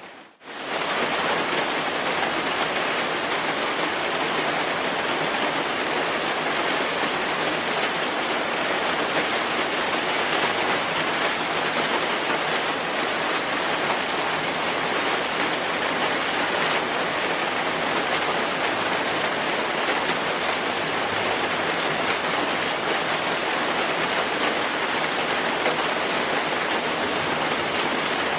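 Steady rainfall: an even hiss of rain with a few separate drop ticks. It dips out for a moment right at the start and fades straight back in.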